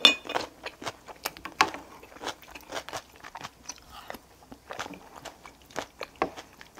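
Someone biting and chewing altari (ponytail radish) kimchi: irregular crisp crunches, a few louder than the rest.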